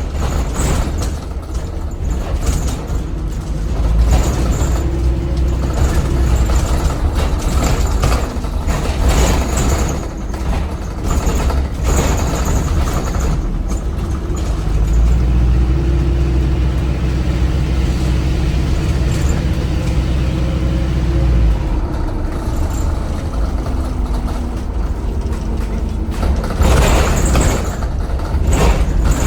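Onboard sound of an ADL Enviro 400 hybrid double-decker bus on the move, its Cummins ISBe 4.5-litre diesel running with a steady low drone. The drone strengthens midway and cuts off sharply about two-thirds of the way through. There are rattles throughout and a burst of air hiss near the end.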